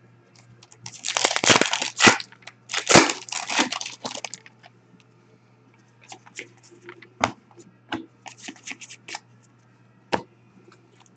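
Hockey card packs' foil wrappers being torn open: two long rips, about one and three seconds in, followed by scattered crinkling and light clicks.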